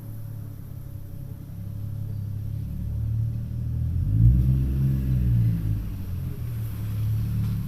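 A passing vehicle's low rumble grows louder, peaking about four to five seconds in with an engine tone that briefly rises and falls, then eases a little.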